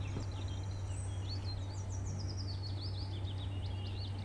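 Small birds chirping in a rapid series of short, high, gliding notes, over a steady low hum.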